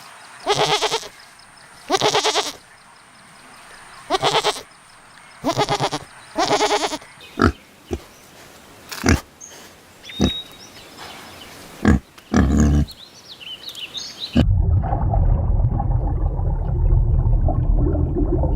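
Bleating livestock, five pulsed bleats in the first seven seconds, then several short sharp knocks. About three quarters of the way through, the sound cuts suddenly to a steady low rumbling noise.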